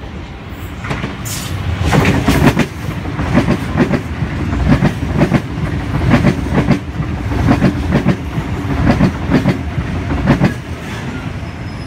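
NSW TrainLink Xplorer diesel multiple unit passing through a station at speed. Its wheels clatter over the rail joints in a quick, uneven run of knocks over a low rumble, growing louder in the first couple of seconds.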